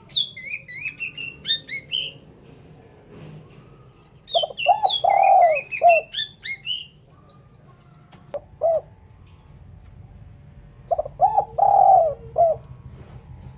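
Spotted dove cooing: a phrase of several coos about four seconds in, a single coo near nine seconds, and another phrase about eleven seconds in. Small birds chirp rapidly in quick high notes at the start and alongside the first phrase.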